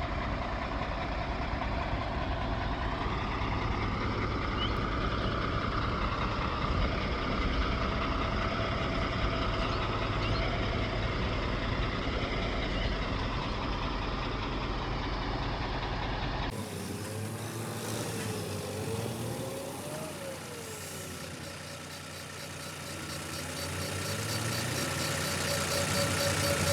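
Heavy vehicle engines running, with a strong low rumble. About two-thirds of the way through, the sound cuts abruptly to another take with less rumble and a wavering whine, then a steady tone that pulses near the end.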